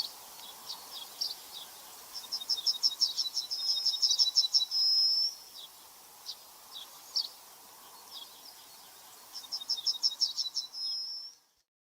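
A songbird singing: a fast run of high repeated notes ending in a short held note, heard twice, with scattered single chirps between. The sound cuts off abruptly near the end.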